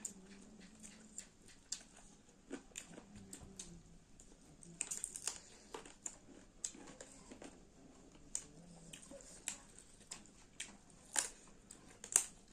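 Close-up eating sounds of chicken and onion: chewing, with irregular sharp crunches and wet mouth smacks several times a second.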